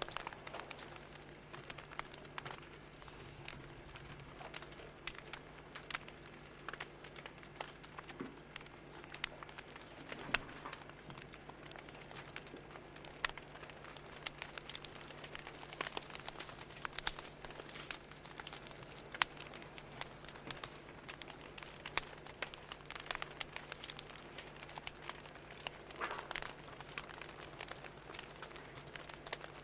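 Wood fire crackling: irregular sharp pops and snaps, some louder than others, over a steady low hum.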